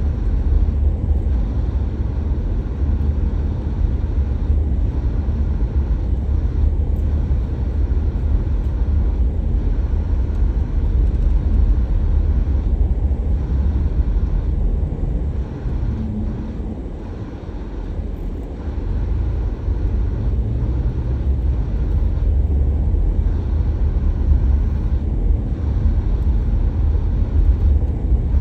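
Steady low rumble of a car on the move, heard from inside: engine and tyre noise. It eases for a couple of seconds a little past halfway, then picks up again.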